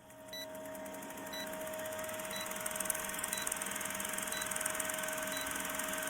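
A short, high electronic beep repeating about once a second over a steady mechanical hum that slowly grows louder.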